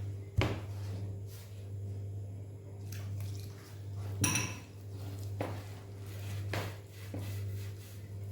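Batbout dough being mixed and gathered by hand in a bowl: soft squishing that swells and fades in slow strokes, with a few knocks against the bowl and one ringing clink about four seconds in, over a steady low hum.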